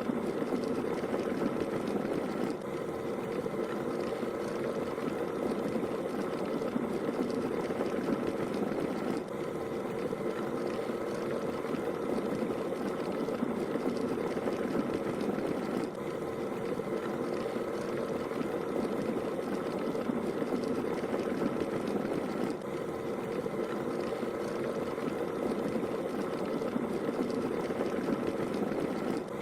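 Steady automobile noise used as a white-noise track: an even, dull running sound with a faint steady hum above it and a slight dip in level every six or seven seconds.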